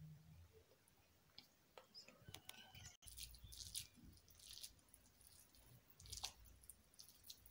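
Faint rustling, soft squishing and light scattered clicks of hands rolling minced-meat kebabs in flour in a bowl.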